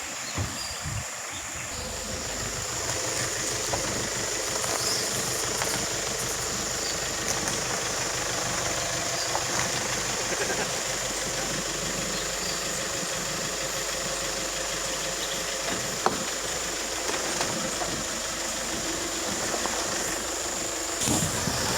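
Off-road vehicle's engine running steadily as it drives through a shallow waterfall stream, with rushing water around it.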